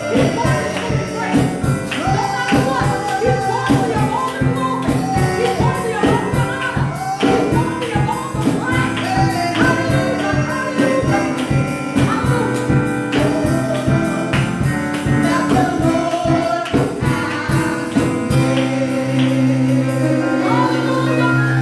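Live gospel praise music from a church worship team: singing over a fast, steady beat with tambourine. About 18 seconds in the beat drops out, leaving a held chord.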